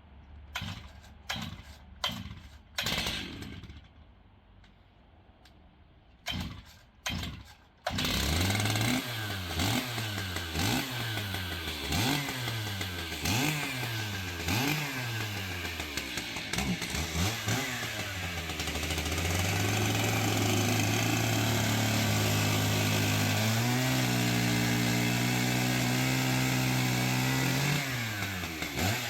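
A few scattered knocks, then about eight seconds in a chainsaw starts and is revved up and down repeatedly. It then runs at a steady high speed, climbs to a higher steady speed about two-thirds of the way through, and drops off near the end.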